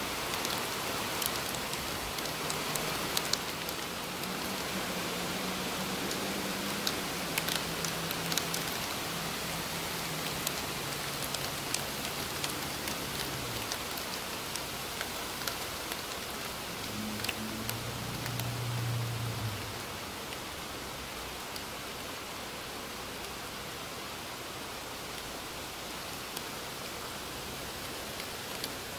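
Steady rain falling on trees, with scattered drops ticking close by. A low hum comes and goes through the first twenty seconds.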